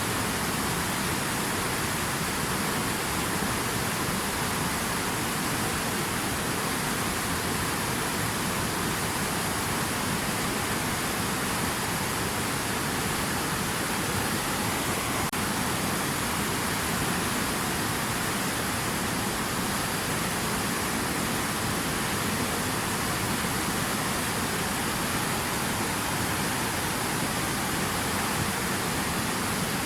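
Steady, even rush of running water, with no individual splashes or drops standing out.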